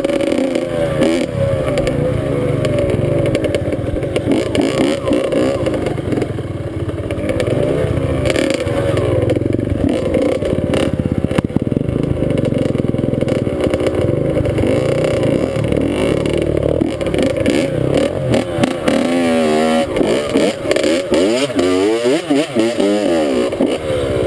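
Dirt bike engine running under way, its pitch rising and falling again and again as the throttle is opened and closed, with some clatter.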